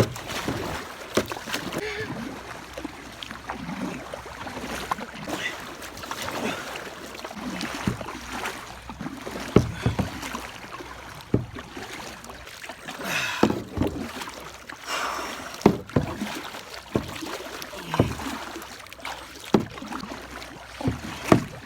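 Kayak paddles dipping and pulling through fast-flowing floodwater, with irregular splashes and knocks every second or two over the steady rush of the current.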